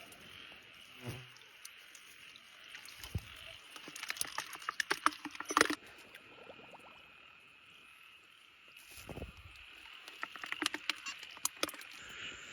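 Steady night chorus of frogs and insects in a flooded rice paddy, with irregular splashes and clicks of wading and handling in shallow water, busiest about a third of the way in and again near the end.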